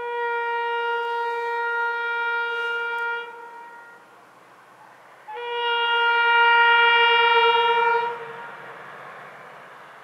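Diesel freight locomotive's horn sounding two long steady blasts of about three seconds each, the second following a couple of seconds after the first, with rolling train noise after the second blast.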